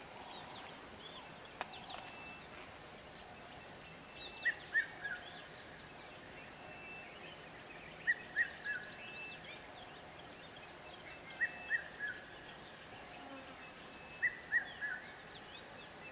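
Birds calling in woodland: one bird repeats a short phrase of two or three clear notes about every three seconds, while other birds chirp faintly. A steady high-pitched hiss runs underneath.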